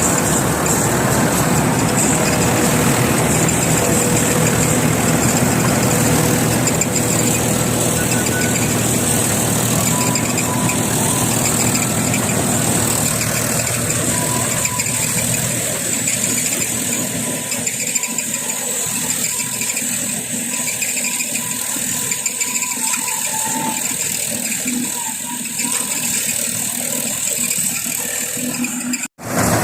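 Combine harvester running steadily while cutting rice, engine noise with a high-pitched whine over it. It breaks off for an instant near the end.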